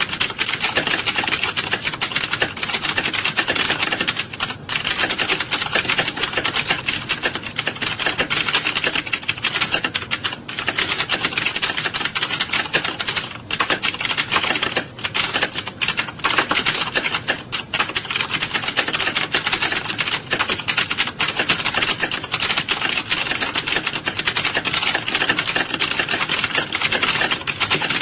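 A roomful of people typing on computer keyboards at once: a dense, continuous clatter of overlapping key clicks, with only brief lulls.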